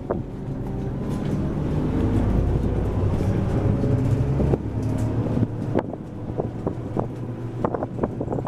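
Bus engine running under load, heard from inside the cabin, growing louder over the first two seconds as the bus gets under way, with scattered rattles and knocks from the cabin.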